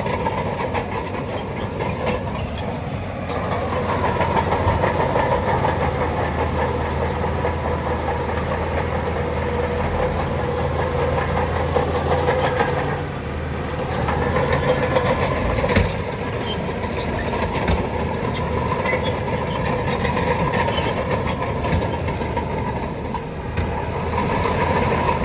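Shantui crawler bulldozer working: its diesel engine runs under load and its steel tracks clatter. The engine pulls harder a few seconds in, eases briefly past the middle, then picks up again, with a sharp clank soon after.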